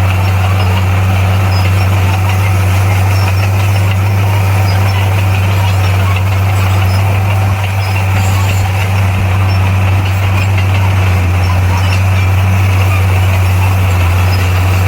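Bulldozer's diesel engine running steadily at an even pitch, a deep steady drone with machine noise over it.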